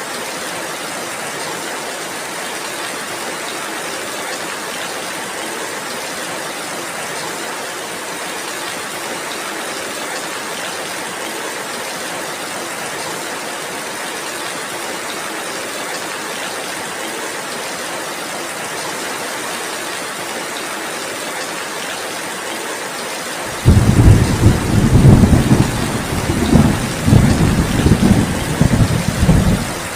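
Steady heavy rain. About three-quarters of the way in, a loud deep thunder rumble starts suddenly, rolls in pulses for about six seconds, and cuts off abruptly.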